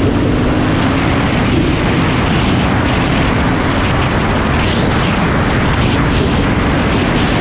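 Wind buffeting the microphone on a moving KTM 500 EXC motorcycle, with the bike's single-cylinder four-stroke engine running underneath. The engine's note rises slightly in the first couple of seconds, then is buried in the wind noise.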